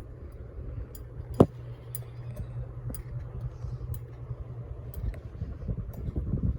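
Harbor Breeze Vue 48-inch ceiling fan running with a steady low hum and faint regular ticking, a sound likened to a helicopter. A single sharp clink comes about a second and a half in.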